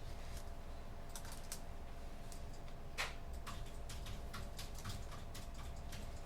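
Typing on a computer keyboard: irregular keystroke clicks in short runs, with one sharper, louder keystroke about three seconds in, over a steady low room hum.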